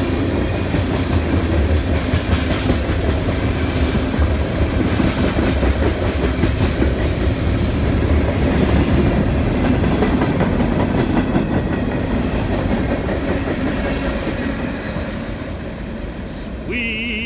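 CSX freight train rolling past close by, its cars' wheels clacking over the rail joints under a heavy low rumble, easing off over the last few seconds.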